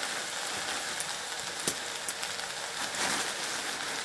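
Chopped leafy greens sizzling in a black iron kadai over a wood fire: a steady frying hiss, with one sharp crackle a little under two seconds in.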